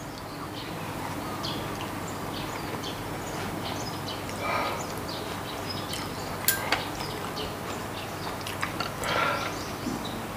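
Quiet chewing and mouth sounds of someone eating strips of raw soy-marinated salmon, with a few light clicks of chopsticks on the tray.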